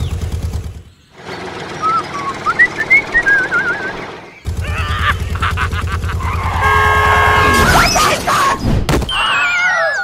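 Edited cartoon-style sound effects: a tractor engine rumble cuts out about a second in, chirpy whistle-like effects follow, and the engine rumble returns about four and a half seconds in. A steady beeping tone comes around seven seconds, and sliding, wavering whistle effects come near the end.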